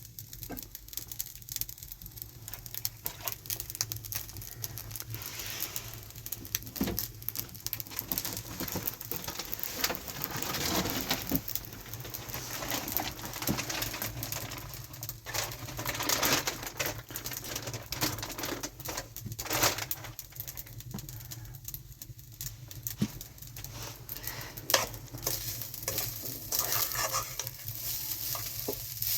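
Food sizzling in a pan, a steady crackling hiss with scattered small clicks and taps that swells now and then.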